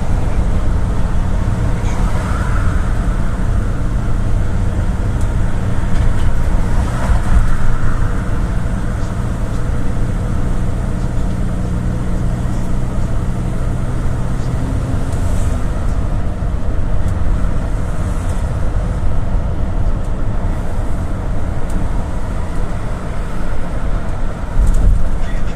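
GAZelle City minibus heard from inside the cabin while driving: a steady engine hum and road noise. The even engine tone drops away about halfway through.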